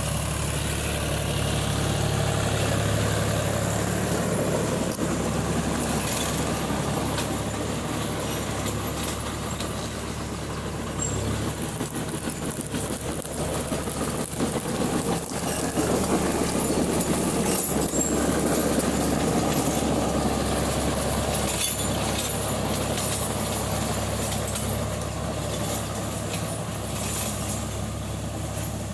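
Tractor engine running steadily, with a change in its note and extra rattling noise between about 11 and 22 seconds in.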